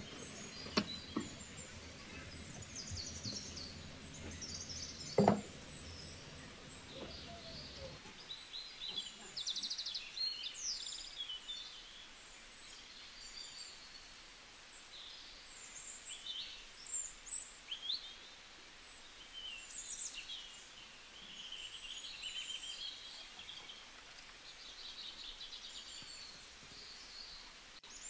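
Small birds chirping, many short high calls scattered throughout. During the first eight seconds a low rumble sits beneath them, and a single sharp knock, the loudest sound, comes about five seconds in.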